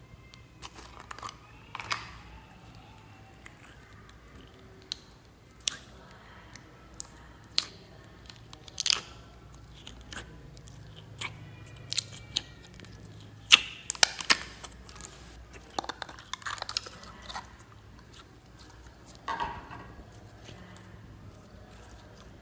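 Slime being mixed and squeezed by hand, giving off irregular sharp pops and crackles, with a few louder clusters of clicks.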